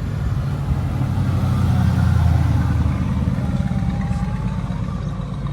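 A car engine running with a low, pulsing sound that swells about two seconds in and then slowly fades, as a car moving slowly past would.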